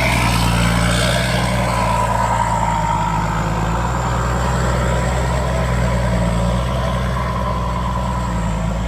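Heavy diesel engine running steadily at a low, even pitch, with a faint whine above it.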